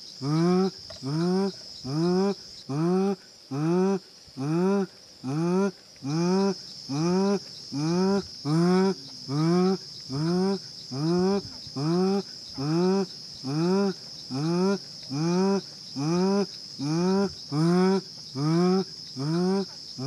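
A bird calling in a steady series of short rising notes, about one and a half a second, over a constant high-pitched insect drone.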